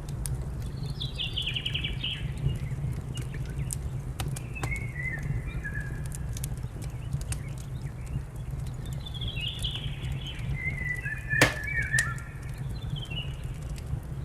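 A wood fire crackling with scattered sharp pops, one loud pop near the end, over a steady low rumble, while a songbird sings several short chirping phrases.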